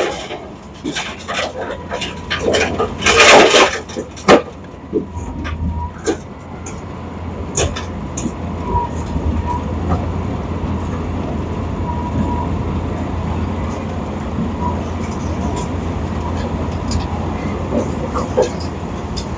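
Heavy diesel roadworks machinery running with a steady low rumble. Two loud rushing bursts in the first few seconds, then scattered knocks and clanks.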